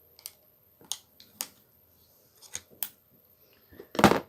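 Sharp clicks and light knocks of small metal parts and tools being handled on an angle grinder's opened housing while a fallen carbon-brush spring is retrieved, ending with a louder short clatter about four seconds in.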